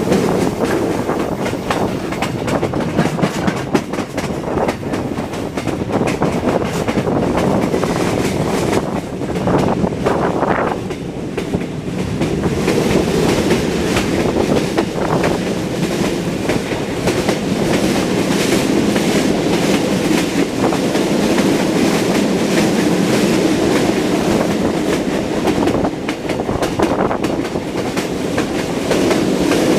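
Train running on the rails, its wheels clacking steadily over the rail joints.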